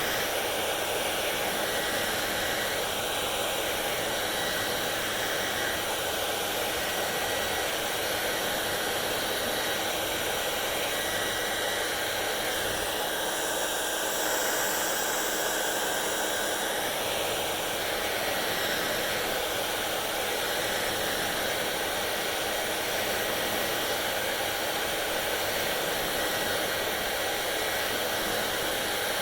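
Hair dryer running steadily: a constant rush of blown air with a faint, steady motor whine.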